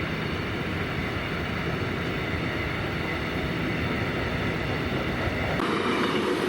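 A passing train: a steady rolling rumble with faint high steady tones over it, changing abruptly about five and a half seconds in, when a lower steady tone comes in.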